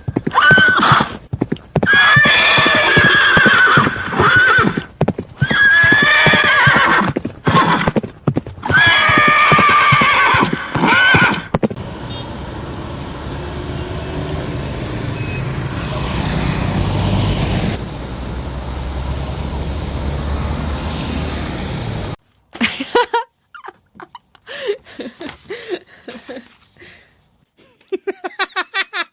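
A horse whinnying four times, about two seconds apart, over quick clip-clopping of hooves. A steady low rumbling noise follows for about ten seconds and cuts off suddenly, then a run of short, choppy sounds.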